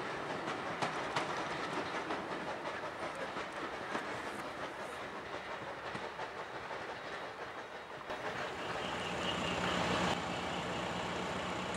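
Railway coaches clattering over rail joints on a bridge, the clickety-clack slowly fading as the train moves away. About eight seconds in the sound changes abruptly to a steadier running sound with a low hum, as GWR 42xx 2-8-0 tank engine 4277 approaches.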